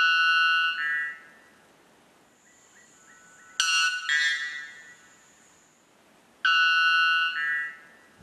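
Three-wattled bellbird calling: three loud, ringing calls about three seconds apart, each lasting about a second and changing pitch partway through.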